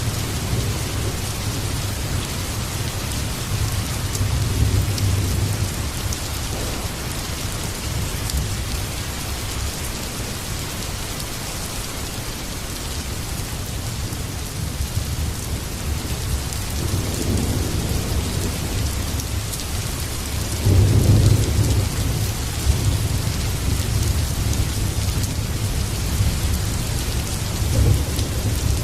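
Heavy rain falling steadily, with rolling thunder rumbling low several times; the loudest peal comes about two-thirds of the way through.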